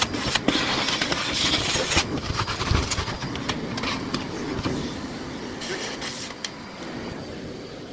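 Miele Blizzard CX1 bagless canister vacuum cleaner running, with many sharp clicks of debris being sucked up; it is loudest in the first two seconds and eases off a little after about five seconds.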